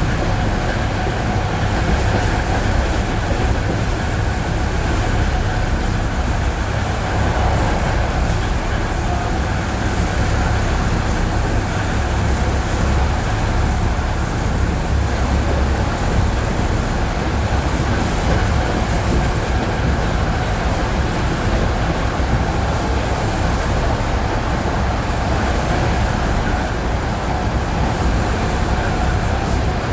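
ED9E electric multiple unit running on jointed track, heard from inside the carriage: a steady low rumble with the clickety-clack of the wheels over the rail joints.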